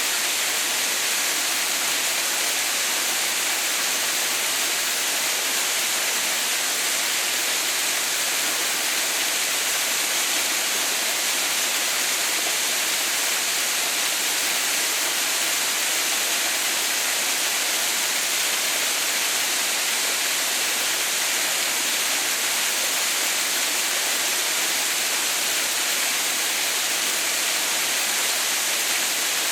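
Waterfall running steadily: an even, unbroken rush of falling water, bright and hissy, with no changes.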